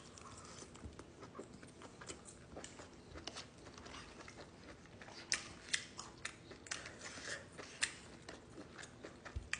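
Close-miked chewing and eating sounds: soft irregular mouth clicks and smacks, a few sharper ones in the middle stretch.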